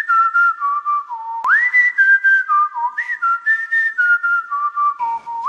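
A person whistling a clear tune: each phrase opens with a rising swoop to a high note, then steps down through several held lower notes. The phrase is whistled twice, and a third begins near the end; a single click falls about a second and a half in.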